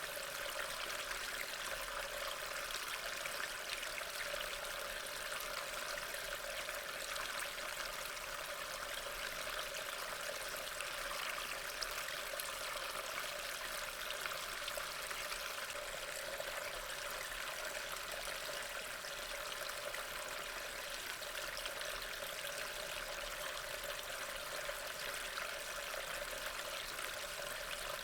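Steady rain falling, an even wash of many fine drops with no breaks or changes.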